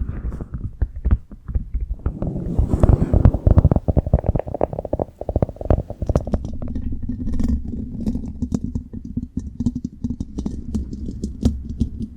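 Close-miked ASMR tapping and scratching: rapid soft clicks and rubbing over a low rumble, with no voice.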